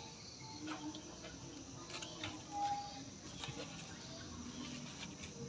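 Scattered light clicks and taps over faint background noise, with a brief short tone a little past halfway.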